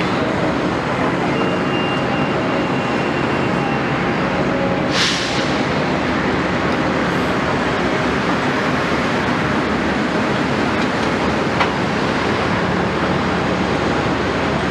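Caterpillar 329E excavator's diesel engine running steadily under work. There is a brief hiss about five seconds in and a sharp click later on.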